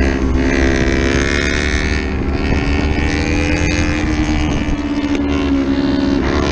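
Racing motorcycle engine held at high revs, its pitch wavering only slightly, with wind noise over it.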